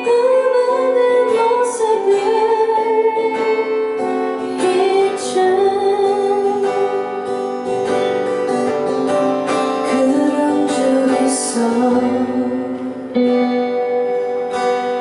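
An indie band song: strummed acoustic guitar with a woman singing a wavering melody line over it.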